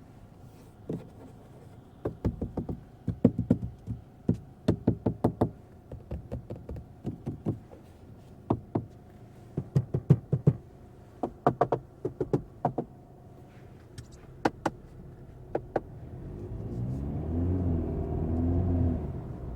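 A run of irregular sharp knocks and taps in clusters, then near the end the 2025 Volkswagen Golf's 2.0 TDI four-cylinder diesel engine rises in pitch and grows louder as the car accelerates.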